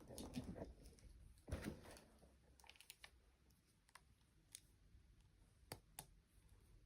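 Faint handling sounds of small objects: two short rustling scrapes in the first two seconds, then scattered light clicks.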